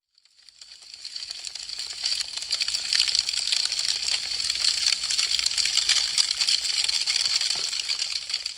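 Wood fire crackling, a dense run of small sharp pops and snaps. It fades in from silence over the first couple of seconds and fades down near the end.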